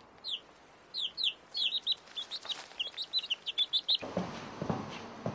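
Small birds chirping in a quick run of short, high, falling chirps, several a second, that stops about four seconds in. A few faint low knocks follow near the end.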